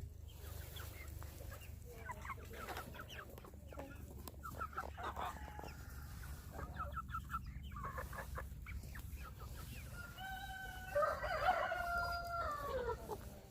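Chickens clucking in short repeated calls, then a rooster crows once, a long call near the end that falls away as it finishes and is the loudest sound here.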